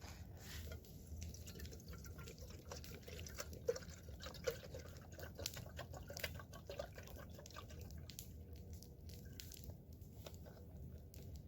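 Water being poured into a small camping kettle, trickling and dripping unevenly with a few small gurgles.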